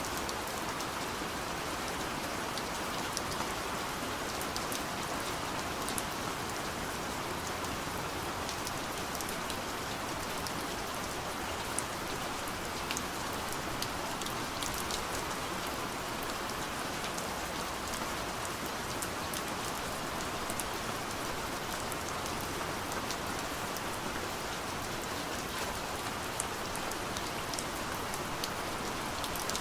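Soft rain falling on a window pane: a steady hiss with many small drop ticks scattered through it.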